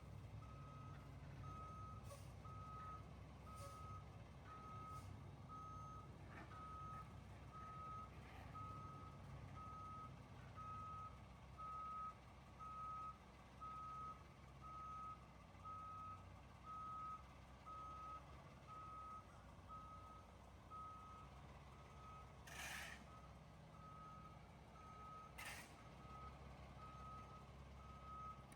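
Vehicle reversing alarm, a steady single-pitch beep repeating about once a second, faint over a low engine rumble.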